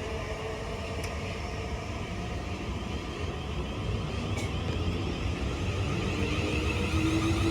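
A passenger train moving at the station: a steady rumble, with a low hum that begins to rise slowly in pitch near the end as the sound grows a little louder.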